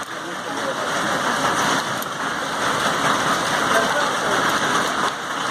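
Rain falling steadily, a dense, even hiss of drops.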